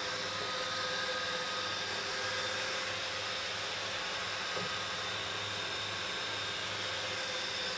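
Cooling fans of a running 1U rackmount server chassis, a steady whir with a few faint held whining tones over it.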